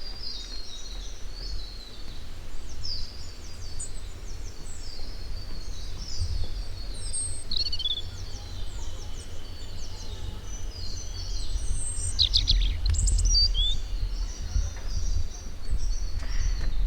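Many small birds chirping and calling at once, quick short notes overlapping throughout. Underneath runs a low rumble that grows louder in the second half.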